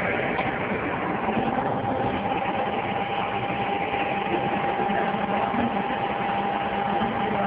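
CNC vertical machining center running steadily, a constant mechanical hum and hiss with a thin steady whine held over it.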